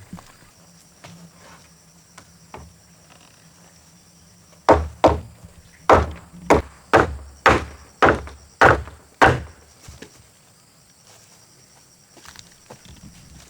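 About ten heavy blows of a tool on timber, roughly two a second, starting about five seconds in and stopping a little after nine seconds, each knock ringing briefly.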